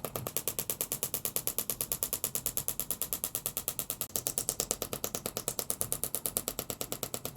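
Rapid, very even mechanical clicking, about ten clicks a second, like a ratcheting machine running steadily.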